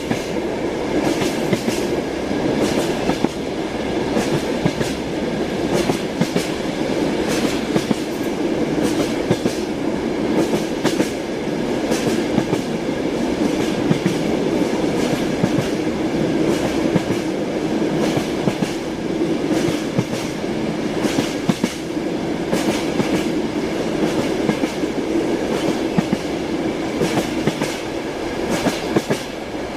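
Train wheels clattering over the rails as a train runs along: a steady rumble with frequent sharp clicks from the rail joints.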